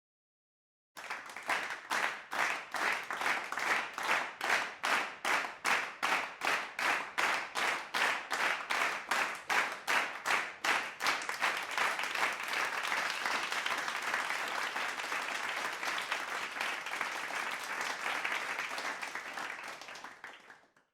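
Crowd clapping in unison at about three claps a second. Near the middle the rhythm breaks into ordinary applause, which fades out near the end.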